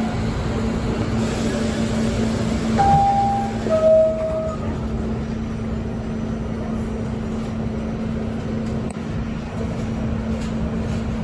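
Steady rumble and hum inside an R68 subway car, with a two-note descending chime about three seconds in, the signal that the doors are closing.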